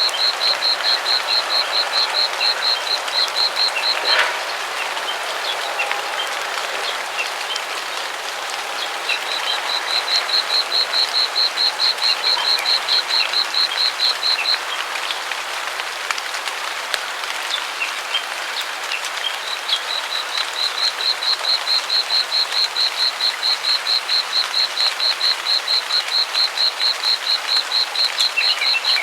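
A chorus of frogs calling in a rice paddy: a dense, crackling haze of many overlapping callers. Over it, one high, rapid pulsing call runs in three stretches of several seconds each, with pauses between them, and a brief click sounds about four seconds in.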